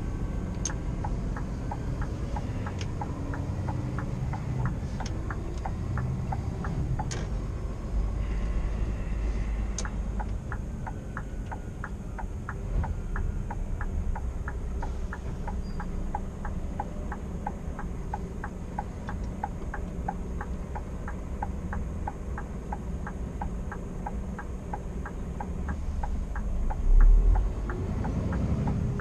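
Cab of a Scania R490 truck on the move: steady low engine and road rumble with a regular ticking of a few clicks a second, typical of the turn-signal indicator. A loud low thump near the end.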